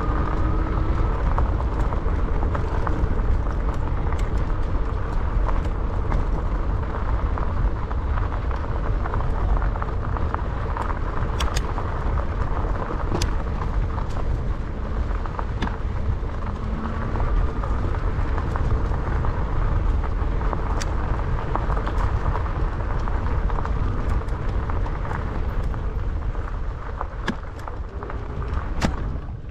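Riding noise on an e-bike's action camera: steady wind rush and low rumble across the microphone, with scattered sharp clicks and rattles.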